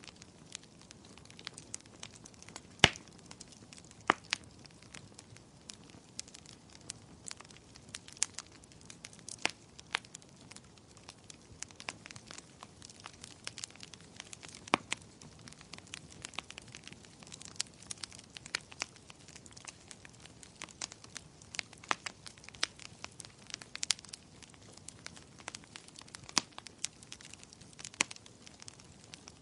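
Wood fire crackling in a fireplace: a soft steady hiss with irregular sharp pops and snaps, the loudest pops about three seconds, four seconds and fifteen seconds in.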